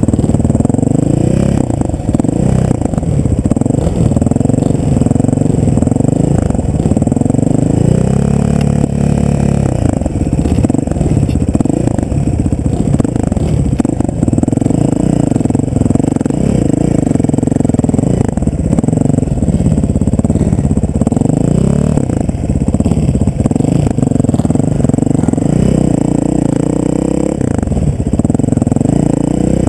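A vehicle engine running continuously, its pitch drifting up and down.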